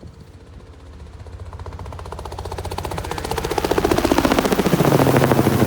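Crop-spraying helicopter approaching and flying overhead, its rotor beating in a rapid, even thump that grows steadily louder. Its pitch drops near the end as it passes over.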